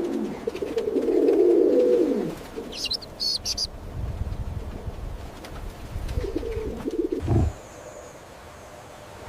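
Birds calling: low, wavering calls, with a few short high chirps about three seconds in and more low calls near the end.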